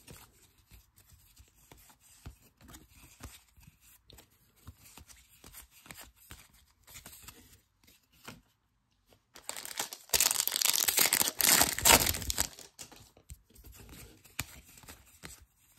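A 2023 Topps Series 1 baseball card pack's wrapper being torn open: a loud crinkling rip lasting about three seconds, starting a little past the middle. Before it, faint light ticks of cards being handled.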